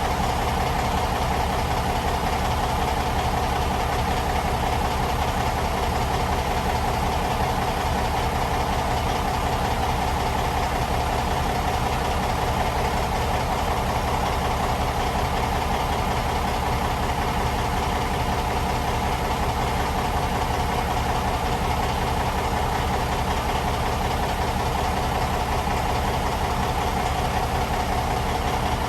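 Large diesel engine running steadily at constant speed, an unbroken loud drone.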